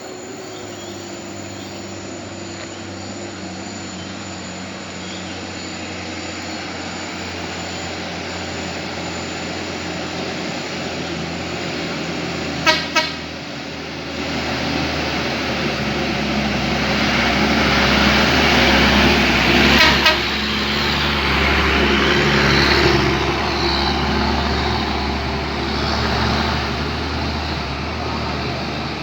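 A truck engine running steadily, swelling louder through the middle and easing off again, with two quick horn toots a little before halfway and another short toot a few seconds later.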